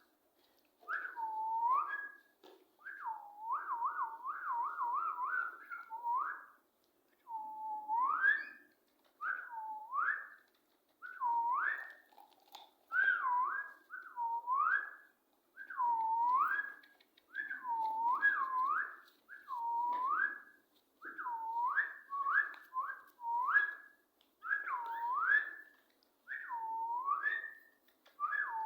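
A parrot whistling the same swooping note over and over: each whistle dips down and then rises sharply, about one a second. A few seconds in, it gives a quick run of rapid wavering dips.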